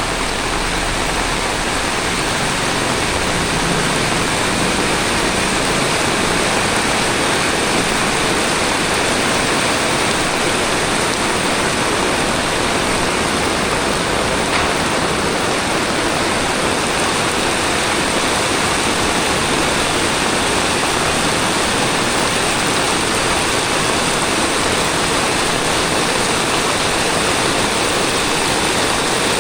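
Heavy tropical rain pouring steadily, an even hiss of falling water.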